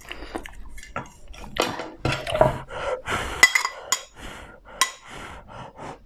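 Chopsticks clicking and scraping against a dish in quick, irregular strokes as food is picked up, with a few sharper clinks around the middle.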